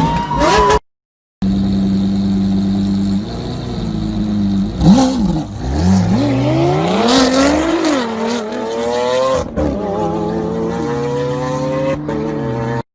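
Car with a loud exhaust running at a steady idle, then revving and accelerating, its engine note climbing in pitch for several seconds before it levels off and drops back.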